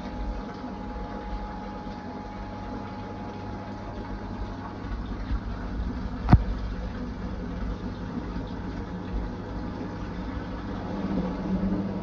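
Fisher & Paykel IW812 top-loading washing machine running mid-cycle: a steady motor hum with water noise, and a single sharp click about six seconds in.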